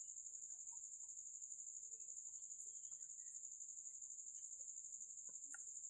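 Faint, steady high-pitched insect trill pulsing rapidly, with a few soft clicks near the end.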